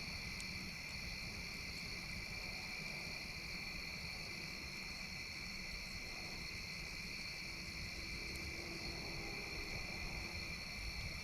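Steady chorus of insects such as crickets, a continuous drone at two high pitches, with a couple of faint clicks.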